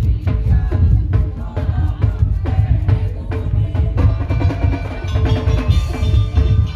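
Madurese ul-daul (tong-tong) percussion ensemble playing: a dense, driving beat of heavy bass drums and wooden slit-drum strikes, with a melody growing stronger about four seconds in.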